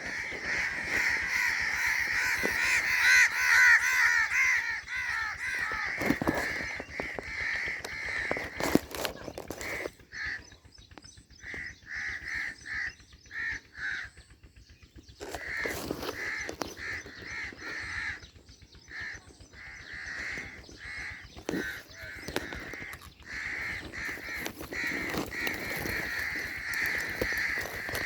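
Mynas calling with harsh, caw-like notes: a dense, overlapping stretch of calls for the first five seconds or so, then runs of short calls repeated several times a second.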